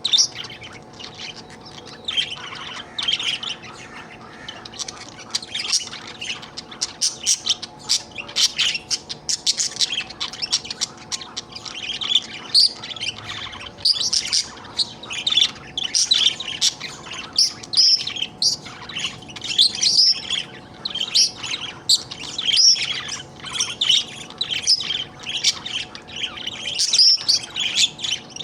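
Budgerigar chattering: a near-continuous run of quick, high chirps and warbles, with a short lull a few seconds in. It is the contented chatter of a happy budgie.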